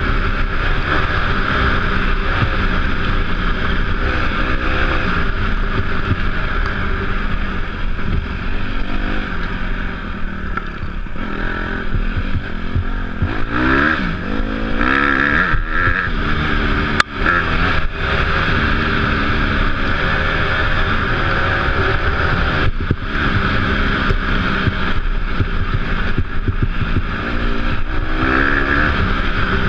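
Off-road dirt bike engine running under way, its revs rising and falling as the throttle is worked, with a steady rushing noise over it. A single sharp click about seventeen seconds in.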